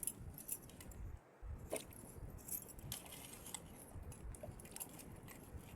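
Scattered light clicks and clinks over a low rumble.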